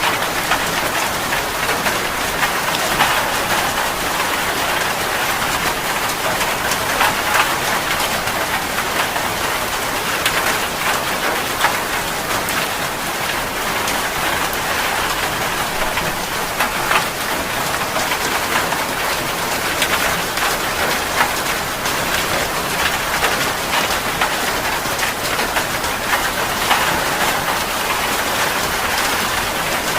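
Steady heavy rain pattering on a surface, a dense even hiss full of small drop impacts.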